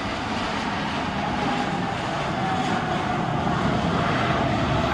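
Aircraft engines running steadily during an approach to land: a dense rush with a faint whine that drifts slowly down in pitch.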